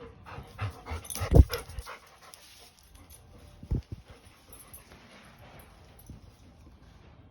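A dog making a quick run of short sounds in the first two seconds, the loudest about a second and a half in, then one more near four seconds in.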